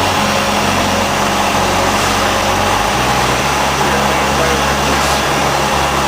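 Single piston engine and propeller of a 1953 Cessna 170B, a six-cylinder Continental, running steadily with heavy airflow noise. The engine note shifts about three seconds in.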